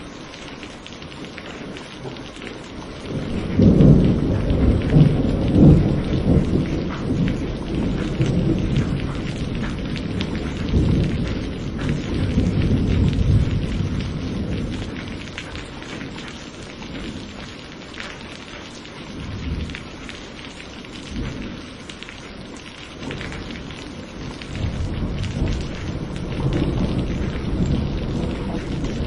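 Steady rain falling, with thunder rolling underneath. A heavy rumble builds about three seconds in and rolls on, slowly fading, for over ten seconds. Another, softer rumble comes near the end.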